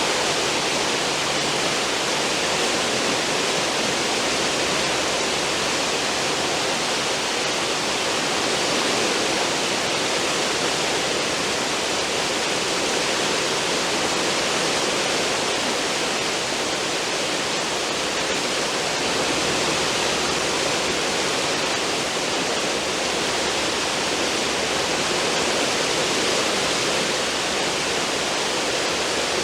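Cruise ship's wake: a steady rush of churning, foaming water behind the stern.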